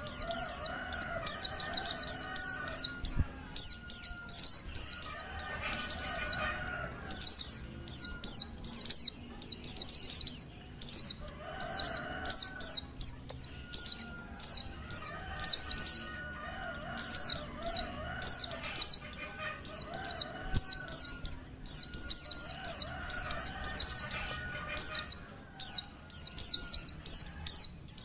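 Female pleci (white-eye) calling: rapid bursts of high, sharp downward-sliding notes, each burst about a second long, repeating every second or two, with fainter lower calls behind. It is the call of a female in breeding condition, used to draw male pleci into song.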